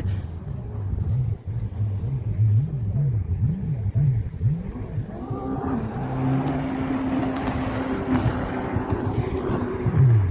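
A motor vehicle passing: its noise swells from about halfway, with a steady engine hum, then fades near the end.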